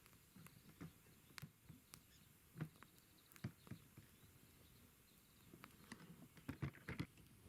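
Wood campfire crackling faintly: scattered irregular pops and snaps, coming thicker in a quick flurry near the end.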